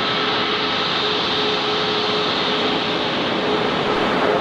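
Jet aircraft engines running steadily: a constant hiss with a steady high whine over it.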